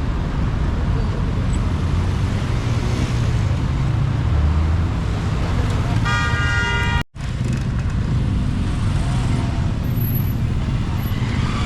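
Road traffic running steadily, with a vehicle horn sounding once for about a second midway; the sound drops out for an instant just after it.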